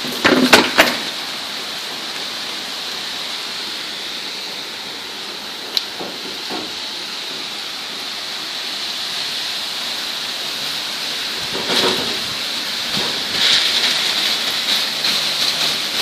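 Steady heavy rain falling, an even hiss, with a few sharp knocks near the start and one about six seconds in, and the rain swelling louder near the end.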